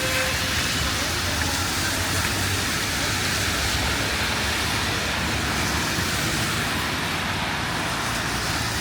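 Steady city street ambience: a low traffic rumble under an even hiss.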